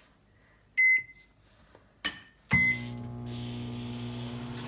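Microwave oven keypad beeping twice, with a click in between. On the second beep the oven starts running with a steady hum, and fan noise joins it soon after.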